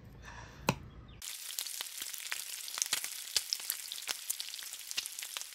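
Food frying on a griddle: a steady hiss with frequent sharp crackles and pops that starts suddenly about a second in. Just before it, a single light click.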